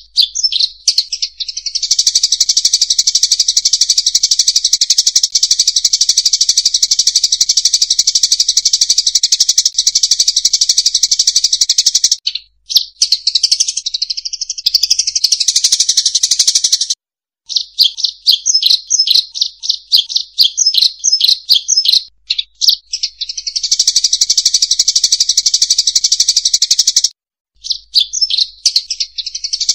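Emprit sawah (munias) calling in a dense, continuous high-pitched chatter, a lure-call recording for drawing the birds in. It cuts off abruptly about twelve and seventeen seconds in and again near the end. For a few seconds after the second break the calls come as rapid separate chirps.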